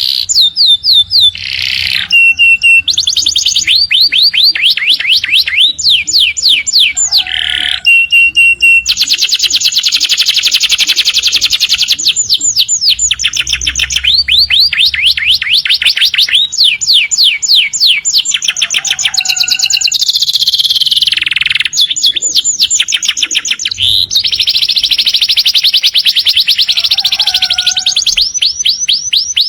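Domestic canary singing a long, unbroken song. It is built of fast trills of repeated sweeping notes and dense, rapid rolls, high-pitched throughout.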